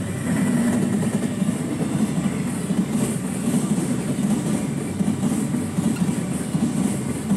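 Train running on rails: a steady low rumble with a fluctuating rattle.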